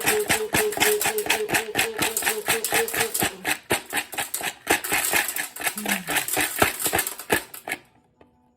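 Rapid rhythmic metallic rattling, about six strikes a second, as a motorcycle fuel tank is shaken with loose hardware inside to scour it. It stops suddenly near the end, and background music plays under the first few seconds.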